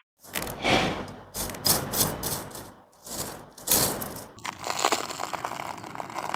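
Hand crafting noise of diorama materials being worked: several rough scraping and rustling strokes, then a steady crackling from about four and a half seconds in.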